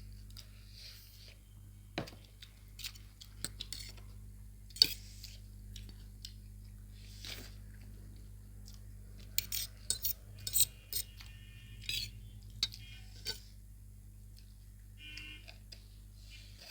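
Cutlery clinking and scraping against plates as noodles are eaten quickly. Scattered sharp clicks and clinks, the loudest one about five seconds in, with a busier run of clinks about ten seconds in.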